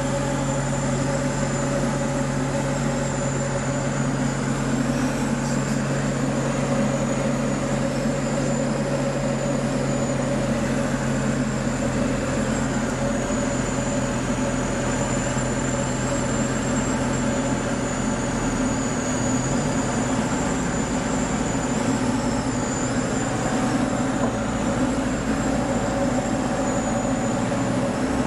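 Light aircraft's piston engine and propeller running with a steady drone. About two-thirds of the way through, its low tones shift.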